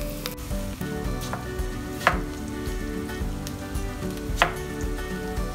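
Chopped onions and garlic sizzling in oil in a pot, with a few sharp knocks from stirring and cutting, the loudest near the end.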